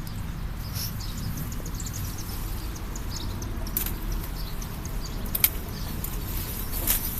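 Outdoor ambience with a steady low rumble, small birds chirping in the first few seconds, and a few sharp clicks or snaps in the second half, the loudest about five seconds in.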